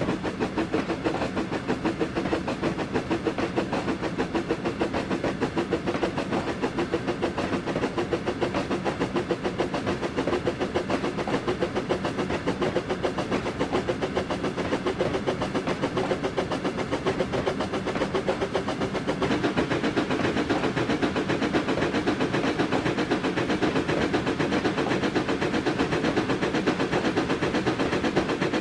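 Train running along the line: a steady, rapid rhythmic running noise that gets slightly louder about two-thirds of the way through.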